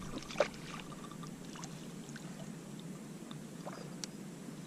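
Faint water trickling and lapping against a kayak hull, with scattered small ticks and one short, louder sound about half a second in.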